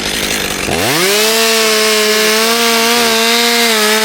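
Two-stroke chainsaw idling, then throttled up sharply about a second in and held at full revs, cutting through a log.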